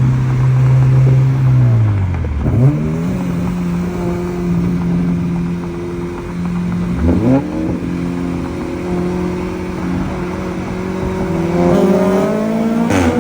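Car engine running under acceleration. Its pitch falls away sharply and climbs again twice, about two and seven seconds in, like gear changes. The revs rise again near the end, with a short sharp crack just before the end.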